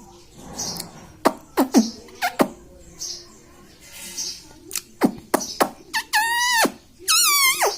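Indian ringneck parrot chirping and calling: a run of short, sharp chirps, then two longer, shrill calls that fall in pitch near the end.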